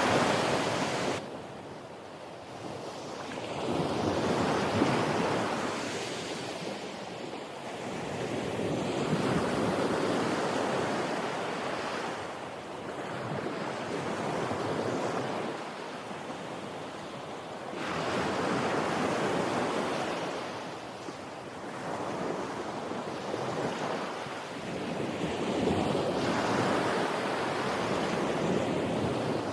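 Ocean waves breaking and washing up the shore, a rushing surge that swells and fades about every four to five seconds.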